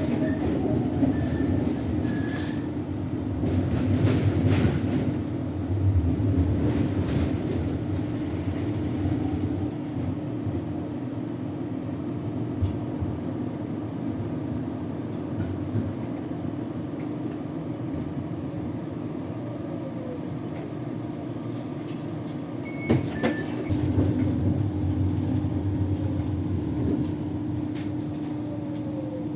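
Tram running along its track, heard from on board: a steady rumble of wheels on rails under a constant motor hum, with a few clicks and a brief squeak from the wheels and track about four seconds in and again near 23 seconds.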